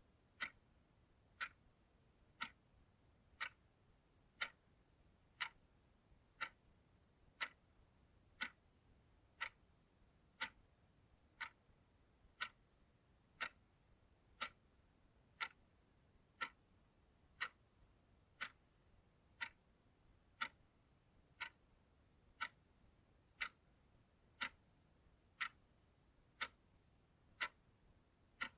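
Clock ticking steadily, one short sharp tick each second, over a faint hiss.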